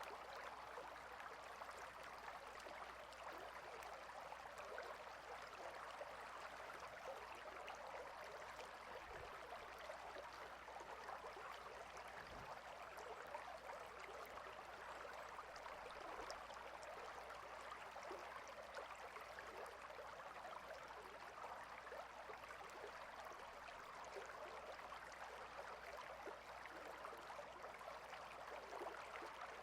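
A small stream flowing, a faint, steady rush of running water.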